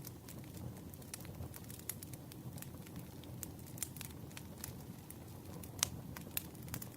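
Campfire burning with a low steady rumble and irregular sharp crackles and pops, one louder pop just before six seconds in.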